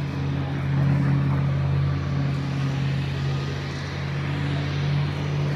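P-51D Mustang's Packard Merlin V-12 engine running with a steady low drone, holding an even pitch.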